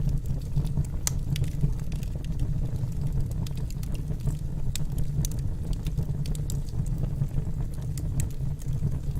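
Firewood burning in a fireplace: a steady low rumble of flame, with frequent irregular sharp crackles and pops from the burning logs.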